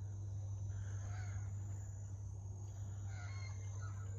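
Birds calling faintly, once about a second in and again about three seconds in, over a steady low hum.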